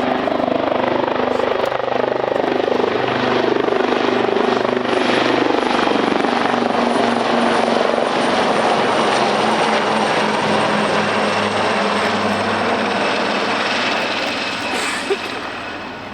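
Royal Navy Wildcat HMA.2 helicopters flying a display pass: a steady, loud rotor beat with a thin, high turbine whine that slowly falls in pitch. The sound fades a little near the end.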